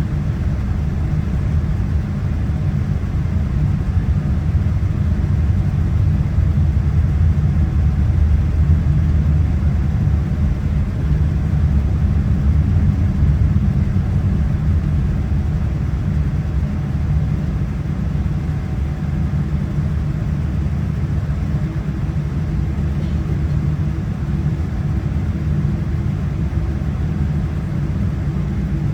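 Steady low rumble of a Boeing 787-9's engines and airframe heard from inside the passenger cabin. It swells a little for several seconds partway through, then settles back.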